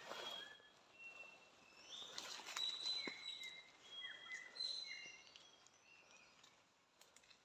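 Faint forest bird calls: a string of short, high whistled notes, several sliding down in pitch, with a few light rustling clicks.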